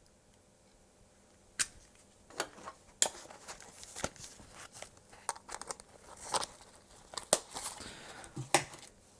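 Handling noise from a small tester and its cable, with scattered sharp clicks and short rustles, as a headphone plug is pushed into the tester's jack socket.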